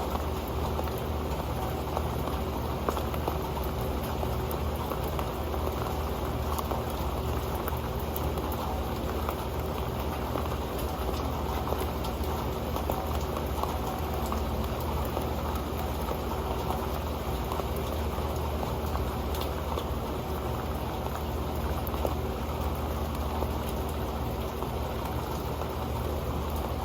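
Rain falling onto an old pan: a steady dense stream of drops ticking on the metal, over a constant low rumble of rain.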